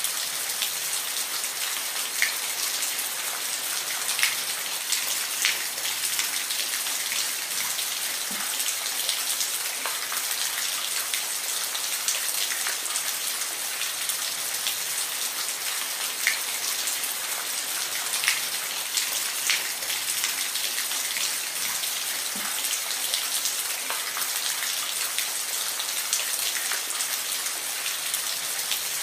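Steady rain falling, an even hiss with individual drops pattering and ticking sharply every second or two.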